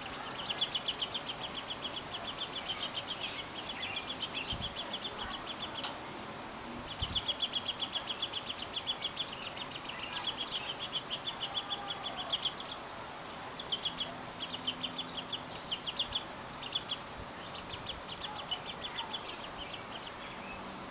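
Downy woodpecker nestlings calling in fast runs of short, high chirps, many a second, each run lasting a few seconds with brief pauses between.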